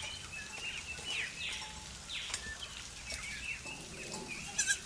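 Birds chirping: many short, quick downward-slurred calls repeating, fairly faint.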